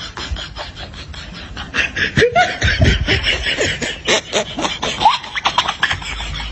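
Laughter sound effect: a person laughing in quick, breathy bursts, with a louder stretch of pitched, rising and falling laughs from about two seconds in to about five and a half seconds.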